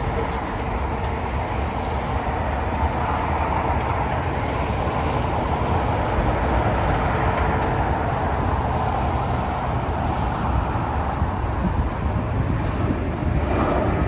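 Jet engines of a Delta Airbus A330 airliner running, a steady loud roar, with a faint steady hum that fades out about halfway through.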